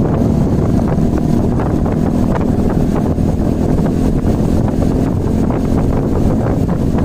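Motorcycle running at road speed, its engine a steady drone under heavy wind buffeting on the microphone.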